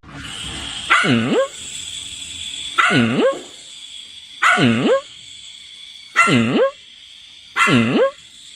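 A dog barking five times at an even pace, roughly every one and a half to two seconds, each bark a drawn-out call that dips and then rises in pitch. A faint steady high whine runs underneath.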